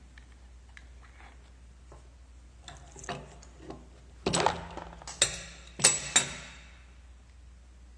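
Metal brake caliper piston and tools being handled: a few light taps, then a run of sharp metallic clinks and knocks, with four louder ones in the second half.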